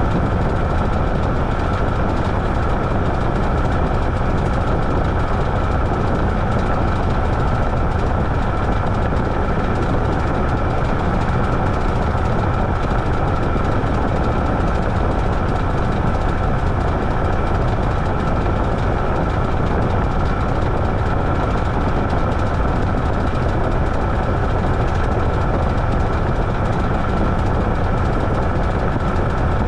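Washing machine running steadily mid-cycle: a constant low rumble with a thin, steady whine over it.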